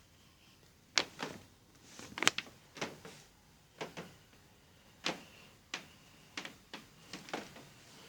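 A string of sharp knocks and clicks, irregularly spaced at roughly one a second, some coming in quick pairs.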